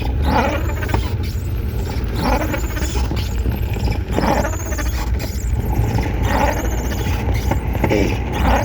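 Strong wind rumbling on the microphone, with a squeal that swells and fades about every two seconds.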